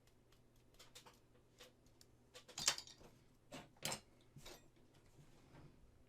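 Scattered light clicks and taps of small tools and resin model parts being handled on a work desk. About two and a half seconds in there is a short scrape, and a sharper knock follows a little later.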